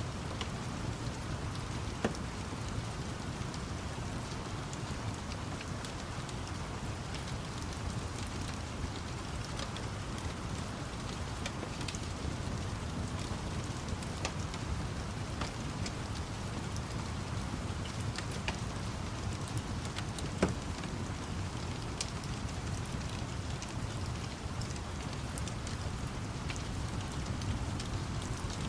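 Steady rainfall over a low rumble, with scattered sharp crackles of a wood fire and two louder pops, about two seconds and twenty seconds in.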